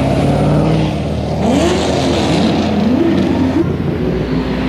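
Nissan GT-R sports cars driving past, engines running steadily and then revving up and down in several quick rising and falling sweeps from about a second and a half in.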